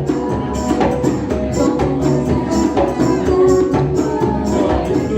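Live band music: an instrumental passage with a steady beat, and no singing.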